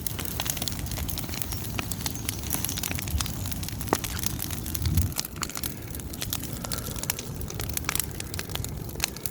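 Large bonfire of dry old wood burning, crackling with many irregular sharp pops and snaps over a low rumble.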